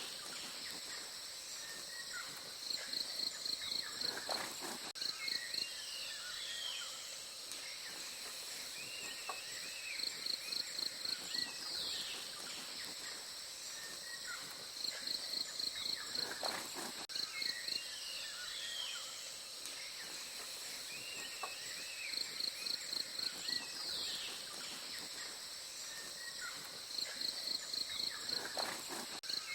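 Forest ambience dominated by a steady high insect drone. Every several seconds a short run of rapid, evenly spaced high chirps rises out of it, and softer bird calls sound in between.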